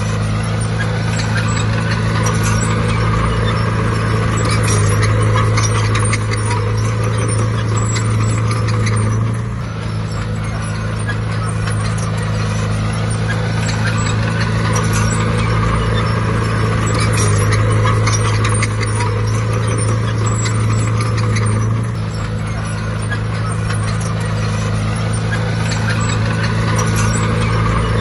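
Bulldozer's diesel engine running steadily under load, easing off briefly twice, with a constant clatter and squeak of metal from the tracks.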